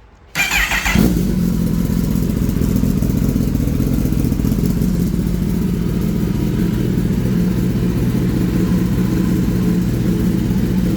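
Cold start of a 2023 Kawasaki motorcycle engine through a new M4 slip-on exhaust, with the dB killer still fitted. The starter cranks briefly, the engine catches within about a second, and it settles into a steady, loud idle.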